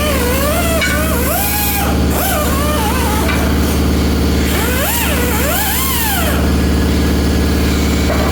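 Steady low mechanical hum, engine-like, with a voice singing or calling in long sliding phrases over it twice.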